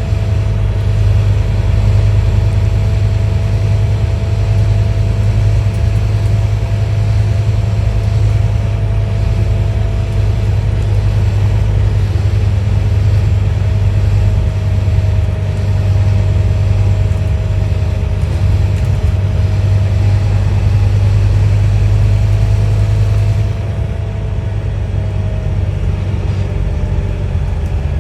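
Scania N230UD OmniDekka double-decker bus's five-cylinder diesel engine running steadily under way: a deep steady drone with a faint steady whine above it, easing off slightly about 23 seconds in.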